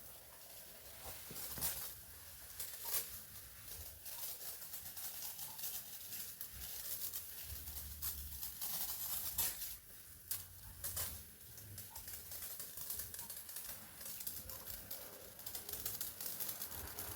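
Water spraying and pattering onto orchid plants as they are watered: a dense high hiss with many quick taps, and a few sharper taps now and then.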